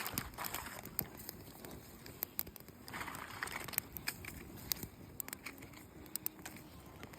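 Small campfire of dry leaves, bark and twigs crackling, with irregular sharp pops and snaps.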